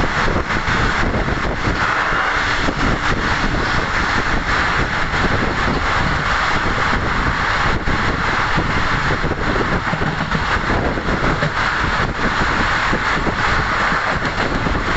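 Passenger train running at speed, heard from a coach window: a steady loud rush of wheels on rails and wind.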